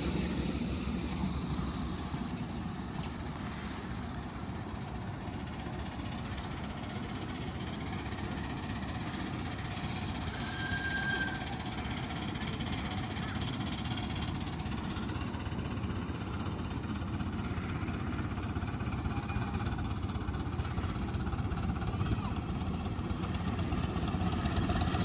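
Miniature railway train running: a steady low rumble of the train on the move.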